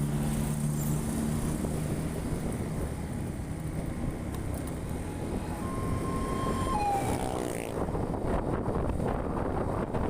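Engine of a moving vehicle running steadily with rumbling travel noise. A brief steady tone sounds about six seconds in and slides down in pitch soon after.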